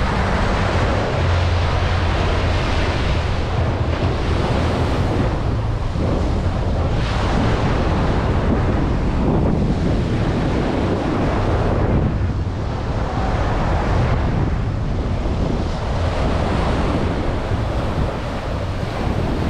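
Ocean surf breaking and washing ashore in swells every few seconds, with wind buffeting the microphone.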